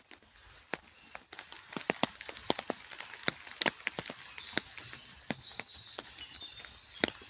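Rain dripping: irregular, sharp taps of single drops landing close by, a few to several each second.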